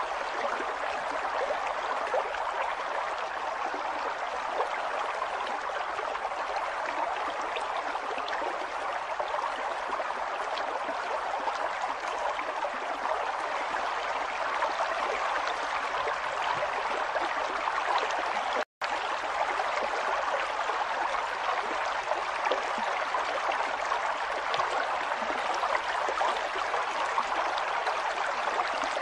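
River water flowing in a steady, even rush with fine splashing detail. The sound cuts out for a split second about two-thirds of the way through.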